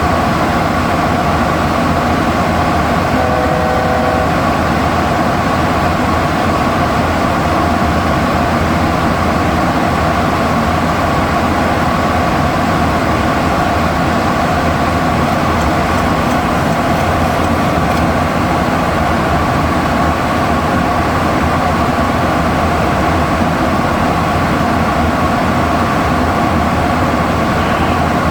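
Steady cockpit noise aboard a Boeing 737NG: constant airflow and engine hum with a few steady tones running through it. A short tone sounds about three seconds in.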